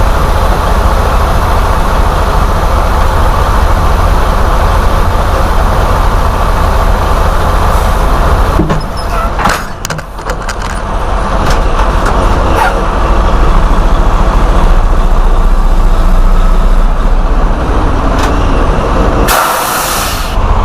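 Semi-truck diesel engine running steadily while the truck is moved, dropping away for a couple of seconds around the middle. A short burst of hiss comes near the end.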